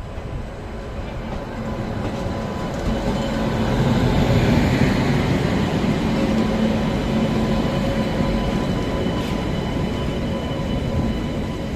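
Moving passenger train heard on board: steady running noise of wheels on rails and carriage rumble, swelling to its loudest about four seconds in and easing slightly after, with a few faint steady tones over it.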